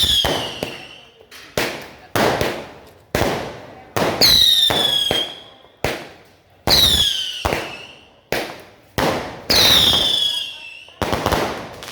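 Consumer fireworks going off in a rapid series of sharp bangs, about one a second, each fading out over a second or so. Four times, a shot is followed by a high whistle falling in pitch for about a second.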